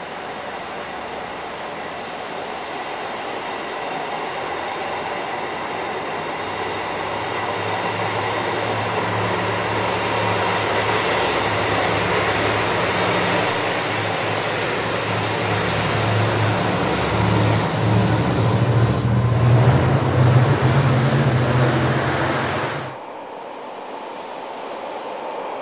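Diesel-hauled push-pull passenger train passing slowly along the platform: steady wheel-and-rail rumble and diesel locomotive engine growing louder as the train goes by, with a thin high whine that slowly rises in pitch. The sound drops off suddenly near the end, leaving a quieter steady background.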